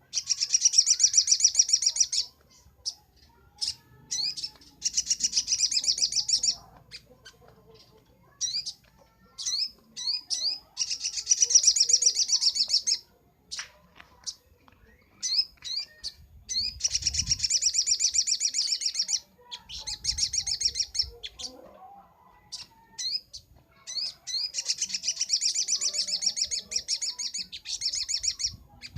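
Little spiderhunter (sogok ontong) singing hard: five long bursts of rapid, high-pitched chattering trill, each about two seconds, with sharp single chip notes in between.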